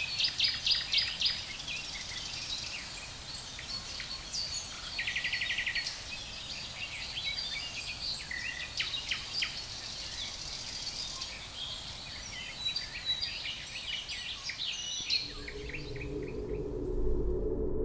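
Several songbirds chirping, with one rapid trill of repeated notes, over a steady background noise. Near the end the birdsong fades out as a low musical drone comes in.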